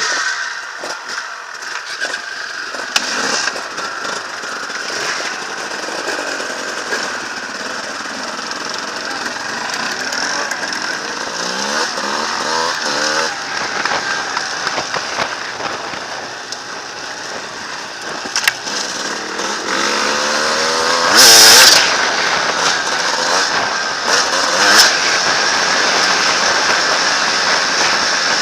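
Enduro motorcycle engine revving up and down repeatedly while riding, with one loud surge of throttle about three quarters of the way through.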